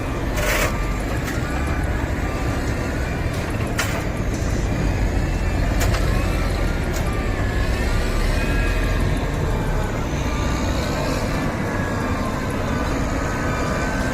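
Heavy truck engine running steadily under load, a deep continuous rumble, with a few sharp knocks scattered through it.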